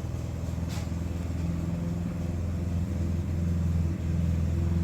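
Steady low mechanical hum of a motor running, even throughout, with a faint click under a second in.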